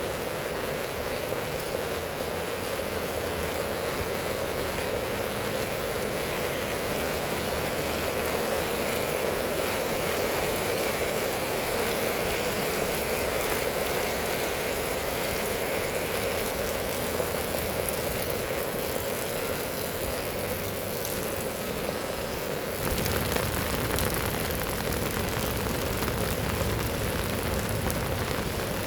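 Heavy rain falling in a steady, even hiss. Toward the end it turns louder and deeper.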